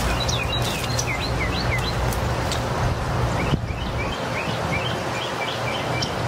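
A small songbird calling in two quick runs of short, high chirps over a steady low outdoor rumble that drops away about halfway. A couple of sharp snips from hand pruners cutting rose canes.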